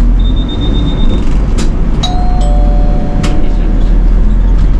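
Nishitetsu city bus running along the road: a steady low engine and road rumble with a few sharp rattling clicks. About two seconds in, a two-tone electronic chime sounds and holds for over a second.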